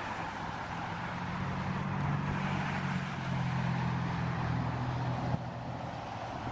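Jet airliner engines running up at takeoff power: a steady rushing roar with a low hum that swells through the middle and drops off sharply a little past five seconds in.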